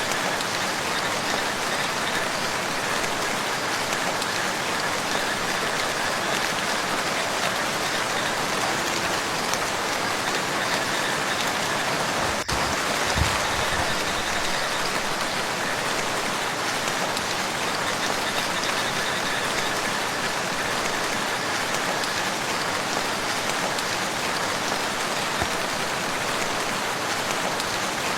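Steady rain falling on a lake, a dense even patter. A brief low thump about halfway through.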